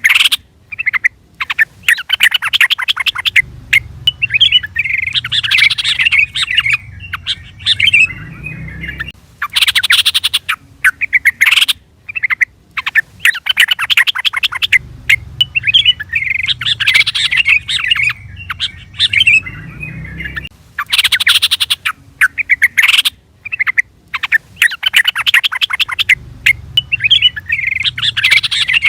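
Yellow-vented bulbul (trucukan) calls: rapid chattering runs of sharp notes and bubbling, warbled phrases, repeating in a loop about every ten seconds. A faint low rumble lies under some stretches.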